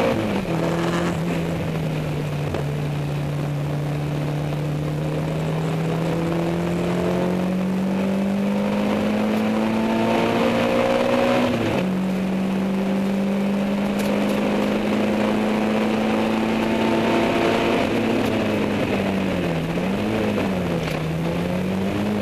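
Peugeot 205 Mi16's 1.9-litre 16-valve four-cylinder engine running hard at high revs, its pitch slowly climbing, dropping sharply about twelve seconds in like a gear change, then climbing again and wavering up and down near the end.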